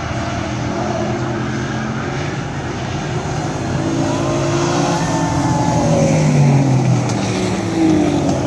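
Racing trucks' engines running at speed on the track. Their pitch rises and falls as they pass, and the sound grows louder in the second half.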